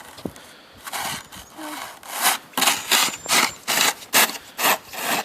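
Snow shovel scraping in a run of short, rhythmic strokes, about two a second, starting about a second in.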